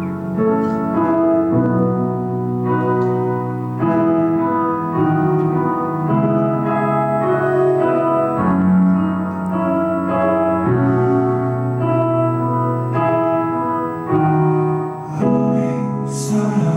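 Piano playing a slow chordal song intro, the chords changing about every two seconds; near the end a few bright hissing hits come in.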